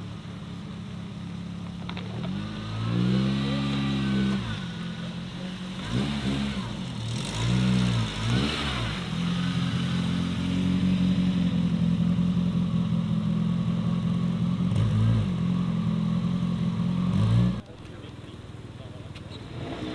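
Modified car's engine revving as it drives off, with a rise and fall about three seconds in and a few quick revs after that, then a long steady engine note that cuts off abruptly near the end.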